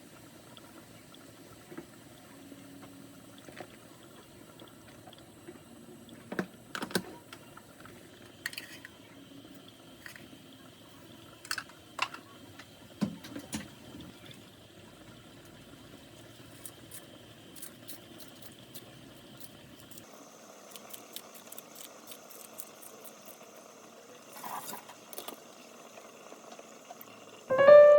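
Scattered clinks and knocks of objects being handled, over a low steady hum that stops about twenty seconds in.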